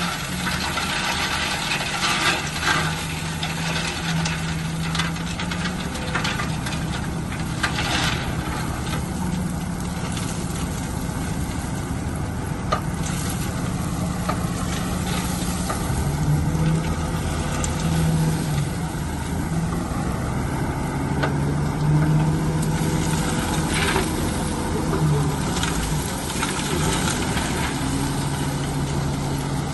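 Diesel engine of a heavy construction machine running, its revs rising and falling several times, with a few sharp knocks.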